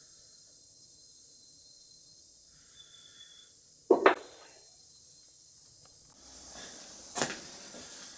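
A sharp double knock about four seconds in, then rustling handling noise and another knock near the end: tools and parts of an antique iron being set down and handled on a workbench while its screws are taken out.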